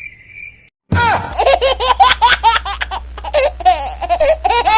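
A child laughing hard and continuously, starting about a second in, over a steady low hum. It is preceded by a faint, steady high tone.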